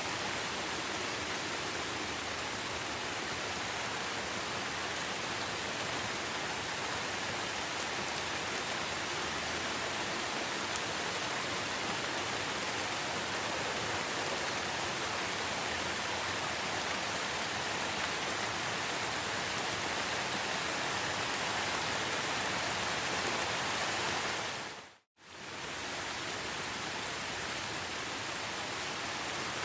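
Steady rainforest rain, an even hiss of falling rain with no distinct drops or animal calls. About 25 seconds in it fades to silence for a moment and comes back at the same level.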